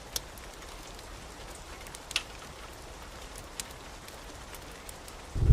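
Steady rain hiss with a few scattered sharp ticks, then a loud low rumble of thunder breaks in near the end.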